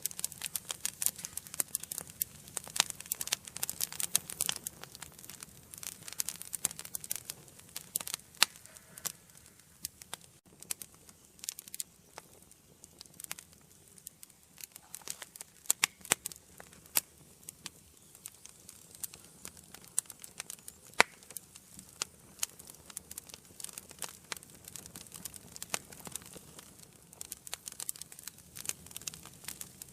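Wood fire burning in an indoor fireplace, crackling with irregular snaps and pops over a low hiss of flame; the pops come thickest in the first several seconds, with one louder pop about two-thirds of the way through.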